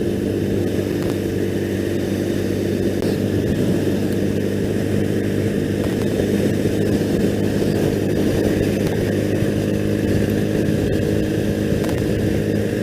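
2001 Triumph Bonneville's air-cooled parallel-twin engine running at a steady cruise, its pitch holding even, under a haze of wind and road noise.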